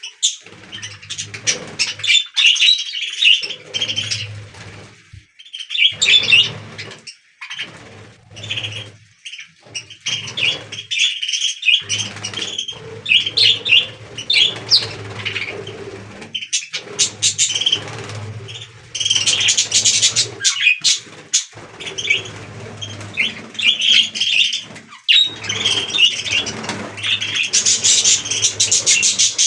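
A flock of budgies chattering: rapid high chirps and warbling that go on almost without a break, with a low hum underneath at times.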